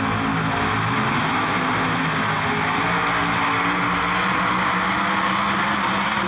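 Drag-race cars at full throttle down a no-prep strip: a loud, steady engine noise whose pitch steps up a couple of seconds in.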